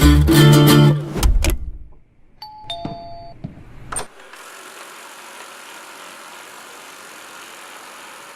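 Acoustic guitar music ends about a second and a half in, followed by a two-note electronic chime, a higher tone then a lower one, like a doorbell ding-dong. A click near the middle gives way to a steady hiss.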